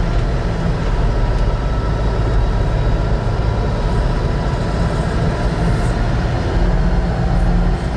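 Tucker Sno-Cat under way, its engine running with a steady low drone.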